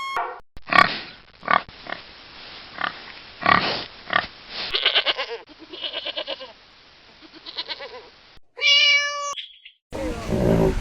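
Farm animal noises: a run of short, sharp calls, several bunched together about four to five seconds in, then one brief pitched call about eight and a half seconds in. A different animal sound cuts in near the end.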